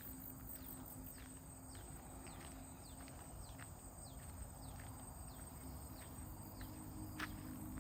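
A bird giving short, downward-sliding chirps about twice a second over a faint steady outdoor background, with one sharp click near the end.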